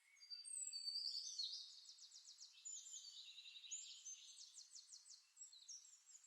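Songbirds singing softly: high whistles and quick trills that begin just after the start and are loudest in the first second and a half.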